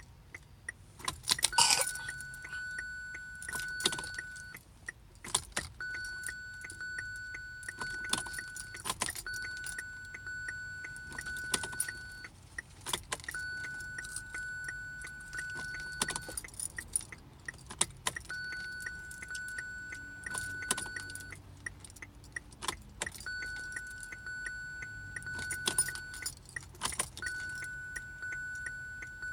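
2017 Kia Sorento's warning chime: a steady high electronic tone in stretches of about three seconds with short gaps, over a regular ticking, while keys jangle and click in the car that won't start.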